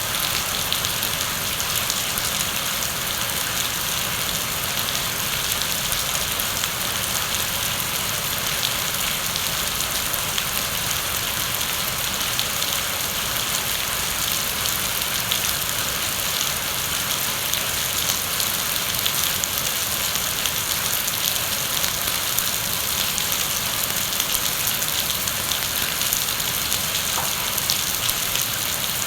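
Heavy rain falling steadily: a dense, even hiss of rain on surfaces, flecked with many small drop ticks.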